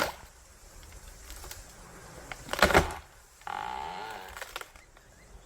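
Wood cracking and snapping in a short cluster of sharp cracks about halfway through, as an elephant pushes against a tree to topple it. A brief pitched sound follows about a second later.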